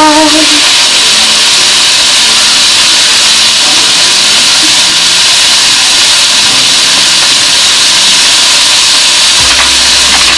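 Tofu and zucchini sizzling steadily in a hot wok: a loud, even hiss of frying. A few light clicks near the end.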